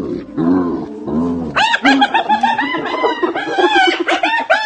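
Hyena vocalising: a few low, arching calls, then from about a second and a half in a rapid run of high-pitched, laugh-like giggling notes.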